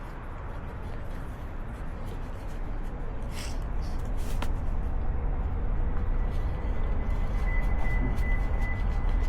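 A motorcycle underway: deep rumbling engine and road noise grow steadily louder, with a couple of sharp clicks in the middle and a faint steady whine in the second half.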